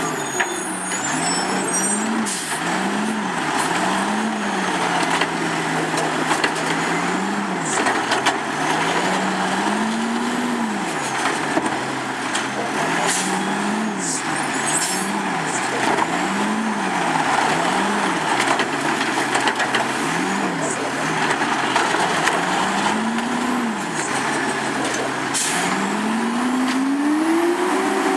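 Autocar Pendpac garbage truck's diesel engine revving up and falling back again and again in short quick bursts, with a longer, higher rev near the end.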